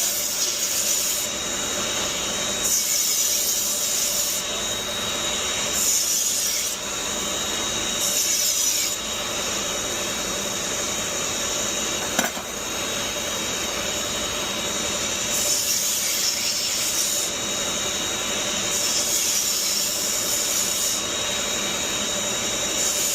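Chef's knife being sharpened, the blade drawn pass after pass across an abrasive with a gritty hissing rasp, each stroke a second or two long, less often through the middle, and one sharp click about halfway.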